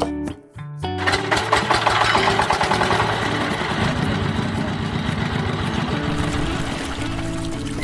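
A small motor buzzing steadily, starting about a second in, over quiet background music.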